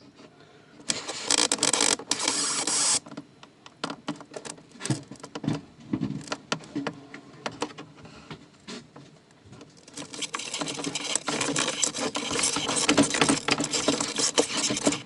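Cables scraping and rustling as they are pulled and fed through a hole into a cabinet, with scattered clicks and knocks. The scraping comes in two long spells, one near the start and a longer one toward the end.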